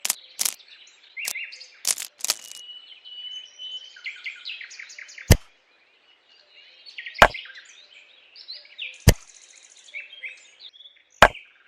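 A series of sharp clicks or taps: several in the first two seconds, then one about every two seconds. Birds chirp in the background, with one held whistled note a few seconds in.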